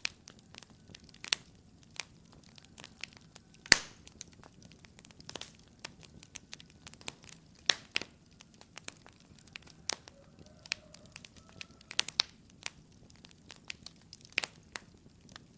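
Wood fire in a fireplace crackling, with irregular sharp pops and snaps over a soft low hiss. The loudest pop comes about four seconds in.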